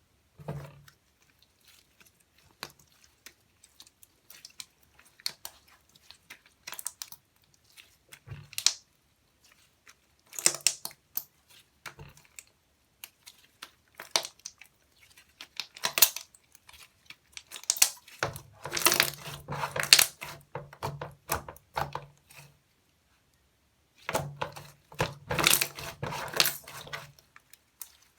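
Slime being squeezed and poked by hand, giving sticky crackling and popping clicks. Single pokes come every second or two at first, then there are two longer spells of continuous crackling squishing, about two thirds of the way through and again near the end.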